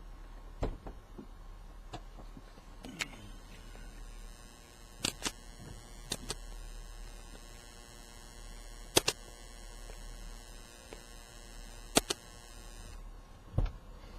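Clicks and knocks from equipment being handled over a steady low hum. A high buzzing tone starts about three seconds in and cuts off suddenly near the end.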